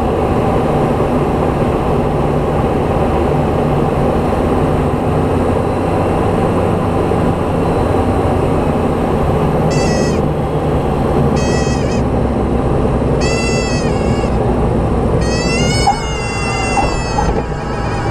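Light aircraft's piston engine running steadily, heard loud inside the cockpit. In the second half come several short high-pitched squeals, each bending in pitch; the last one is longer.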